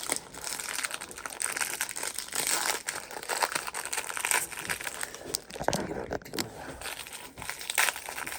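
Plastic biscuit packet crinkling as it is handled, in an irregular run of crackles.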